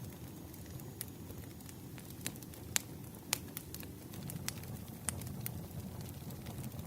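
Firewood burning, with irregular sharp pops and crackles over a low steady rumble of the flames; the loudest pops come a little before and just after the middle.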